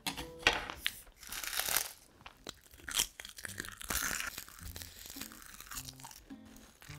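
Close-up eating sounds: crunchy bites and wet chewing at an irregular pace, with soft background music underneath.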